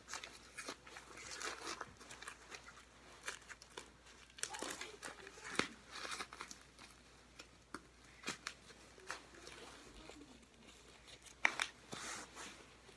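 Packaging and small gift items rustling and crinkling as they are handled and pushed into a Christmas stocking, in short irregular bursts with a few sharper clicks.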